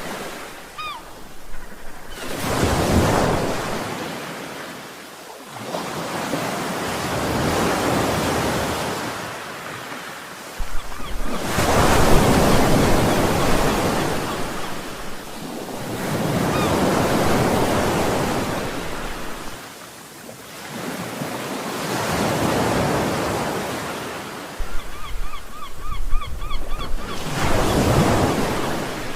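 Ocean waves breaking on a shore, the surf swelling and ebbing about every five seconds.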